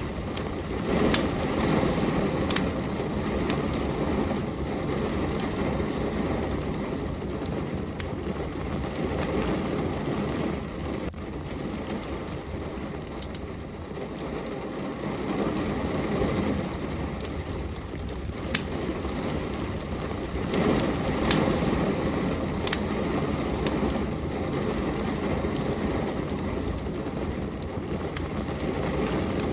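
Steady heavy rain, with scattered sharp pops and crackles from a wood fire. A deeper rumbling swell comes in about a second in and again about twenty seconds in.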